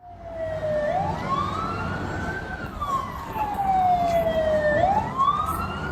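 Emergency vehicle siren wailing, its pitch sliding slowly up, then down, then up again, over a steady low rumble.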